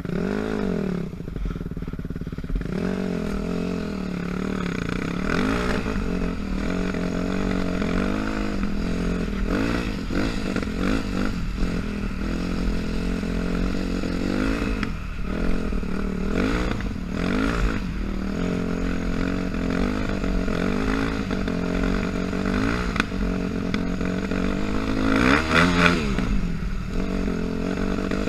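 A Yamaha dirt bike engine runs under load and revs up and down again and again as the bike is ridden through deep snow. The strongest rev comes near the end.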